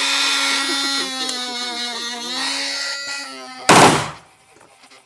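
A steady, loud pitched hum with many overtones, then a single gunshot about three and a half seconds in, ringing briefly afterwards.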